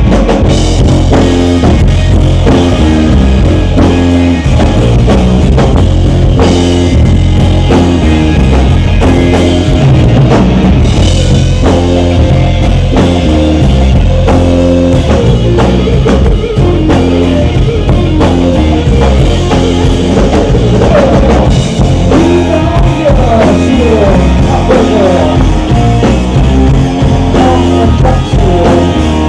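Rock band playing loudly, with a driving drum kit and electric guitar over a heavy, steady bass line.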